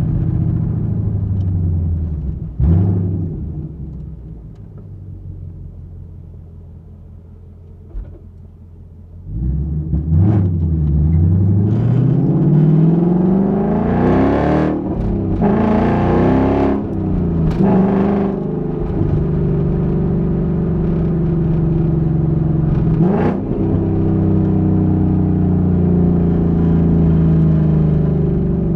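2021 Ford Mustang GT's 5.0-litre V8 exhaust, heard from the trunk. It first slows and drops to a quiet coast. About nine seconds in it opens up hard, with the revs climbing to a loud peak. Then it settles into a steady cruise drone.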